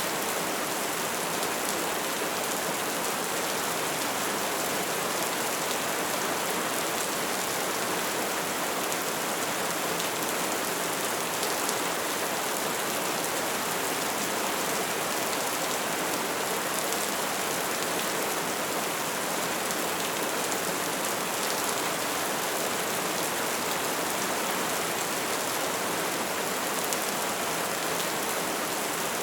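Bonfire burning: a steady hiss of flames laced with many small, fast crackles and pops.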